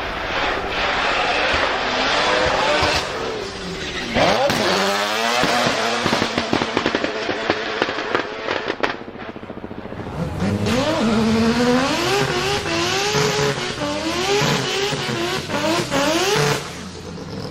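Drift car's engine revving hard, its pitch repeatedly climbing and dropping, with sharp exhaust crackles and tyre noise. There is a sudden loud surge about four seconds in, then a brief lull. After that comes a run of quick rising revs, about one a second, before it falls away near the end.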